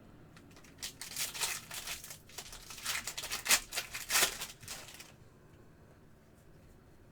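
Trading-card pack wrapper crinkling and tearing open in a run of crackly bursts, from about a second in until about five seconds in.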